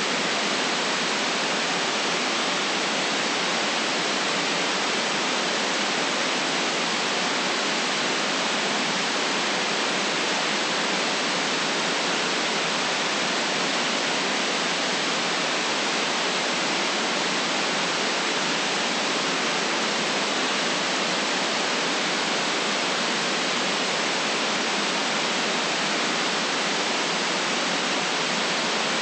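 Steady white noise: an even, unchanging hiss with no deep rumble and no separate sounds in it.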